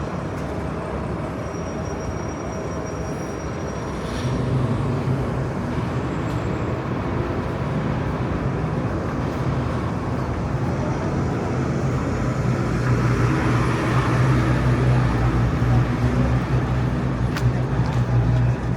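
City street traffic noise, with a motor vehicle's engine running close by: its low hum comes in about four seconds in and grows louder toward the end.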